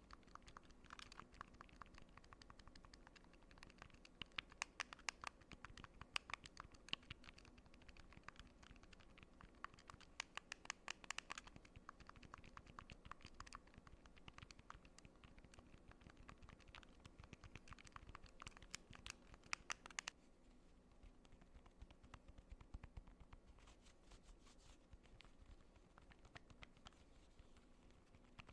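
Fingertips clicking small buttons and scratching, in quick runs of sharp clicks; after about two-thirds of the way through the clicks thin out to a few faint ones.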